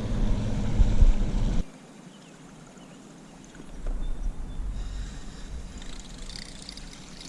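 A boat motor running with a steady low hum, cutting off abruptly about a second and a half in; after it, only quieter low rumbling noise from water and wind.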